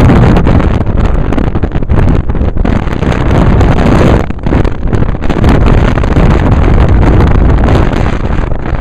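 Strong wind buffeting a camera microphone held at a moving car's window, a loud, rough rush with the car's road noise underneath; it eases briefly a couple of times mid-way.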